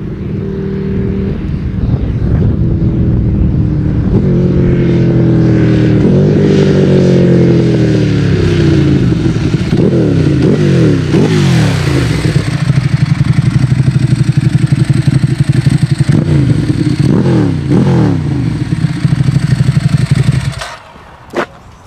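Ducati Street Fighter 848 L-twin with a twin-outlet Termignoni exhaust. Its revs climb in steps through gear changes, fall away, then it runs at a loud, lumpy, steady pulse that cuts off suddenly near the end.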